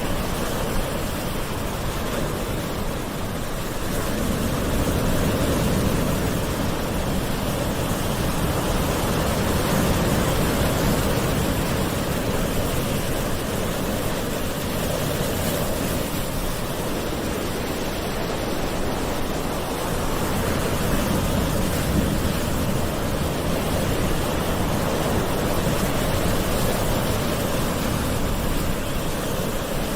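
Gentle ocean waves washing in a continuous, even surf, swelling and easing softly every several seconds.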